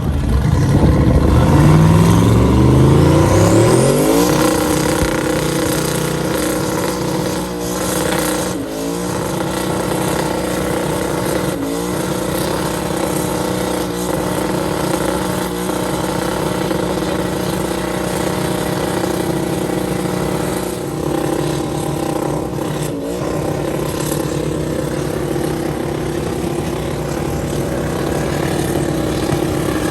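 Twin-turbo LS V8 in a swapped Volvo wagon revving up over about four seconds, then held at high, steady revs for the rest, with a few brief dips.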